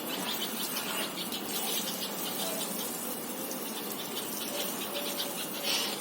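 Insects chirping in rapid, evenly repeated short pulses over a steady hiss, with a brief, louder high squeak near the end.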